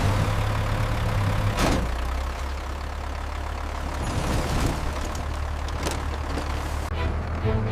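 Heavy truck engine idling with a steady low rumble, with two short sharp sounds over it, one early and one late.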